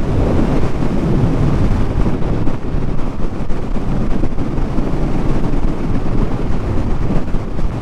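Steady wind rush over the microphone of a motorcycle at road speed, with the bike's engine running underneath.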